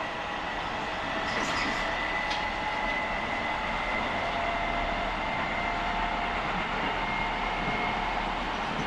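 Keio 9000 series train running, its Hitachi IGBT VVVF inverter and traction motors whining over the wheel and rail noise. Several steady motor tones slowly rise in pitch as the train gathers speed. A brief high squeal comes about a second and a half in.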